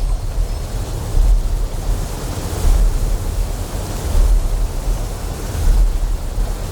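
Deep, low generator hum that swells in a slow pulse about every one and a half seconds, over a steady hiss of flowing water.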